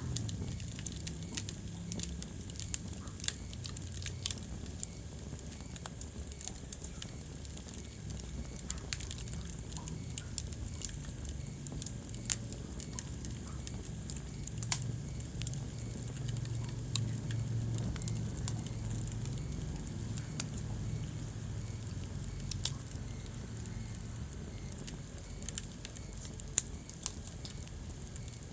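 Wood fire crackling in a fireplace: scattered sharp pops and snaps, a handful louder than the rest, over a steady low rumble of the flames.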